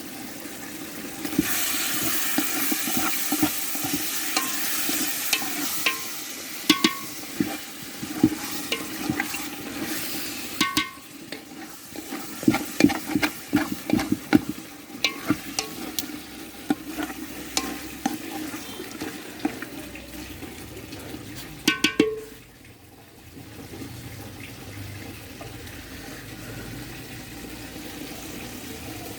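Chicken curry frying in a pan while it is stirred, a spoon scraping and knocking against the pan. The sizzle is loudest for the first ten seconds or so, a flurry of knocks follows, and it settles to a quieter sizzle near the end.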